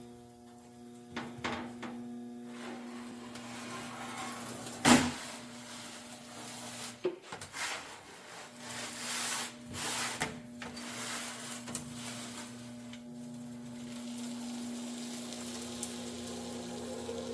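Sheet metal panel being handled and worked at a bead roller: scraping and rubbing of the steel, with a sharp metallic clack about five seconds in, over a steady low hum.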